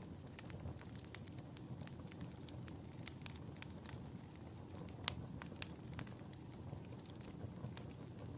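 Wood fire burning in a fireplace: a steady low rumble of flames with frequent irregular crackles and pops, one sharper pop about five seconds in.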